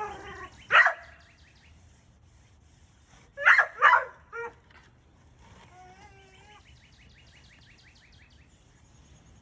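Pit bull barking: one bark about a second in, then two barks in quick succession with a short yip just after, near the middle. A faint wavering whine follows.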